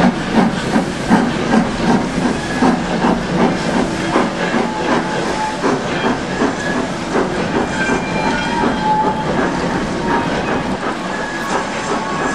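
Steam locomotive working a train, its exhaust beats chuffing at about three a second. The beats blur in the second half into the rumble and clatter of carriages rolling over the rails.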